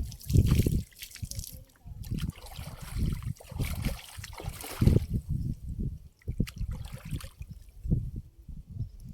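Water splashing and trickling in irregular bursts. The sound is busy through the first five seconds and sparser after that.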